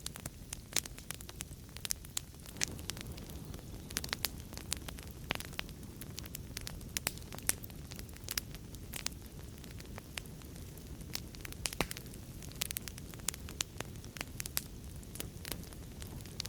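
Wood fire in a fireplace crackling, with many sharp irregular pops over a steady low rumble of the flames.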